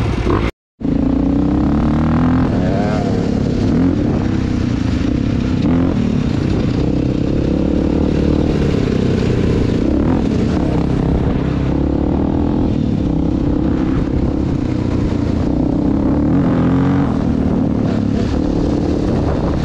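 Dirt bike engine running while being ridden, its pitch rising and falling with the throttle. The sound drops out completely for a moment just under a second in.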